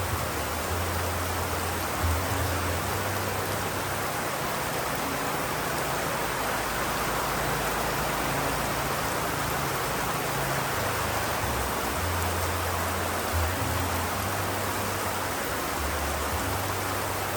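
Steady rain falling in an even hiss, with a low rumble underneath that comes and goes.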